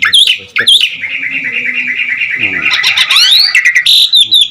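A jalak (Asian starling or myna) singing. It opens with sharp repeated chirps, goes into a fast, steady rattle about a second in, then breaks into rising whistled notes and loud whistles near the end.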